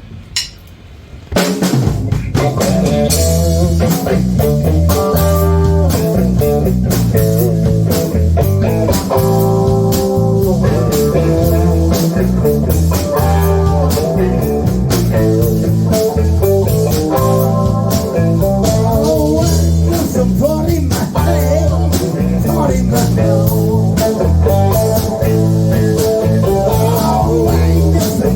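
A live band with guitar and drum kit playing the instrumental opening of a song. It starts abruptly about a second and a half in.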